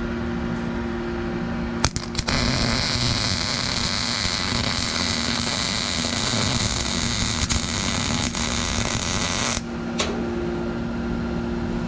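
Welding arc on sheet steel, an even sizzling hiss starting with a few sharp crackles about two seconds in and running for about seven and a half seconds before cutting off suddenly, as a console mount bracket is welded to the floor pan. A steady two-tone hum runs underneath.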